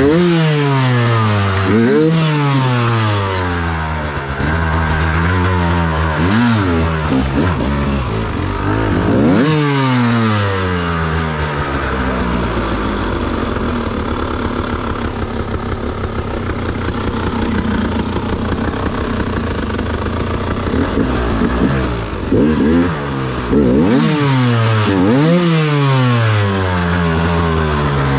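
Off-road motorcycle engine under way on a trail, its revs repeatedly rising and falling. The engine runs steadier and lower for several seconds in the middle, then rises and falls again near the end.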